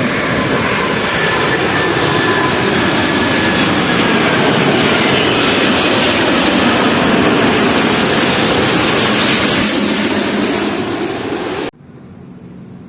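Jet airliner passing low overhead on its landing approach: loud, steady jet engine noise with whining tones sliding slowly down in pitch. It cuts off abruptly near the end, leaving a much quieter background.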